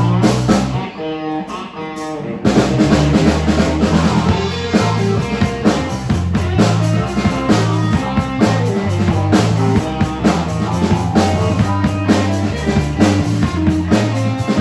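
Rock band playing live, without vocals: guitar on its own at first, then drums and bass guitar come in about two and a half seconds in and the full band plays on.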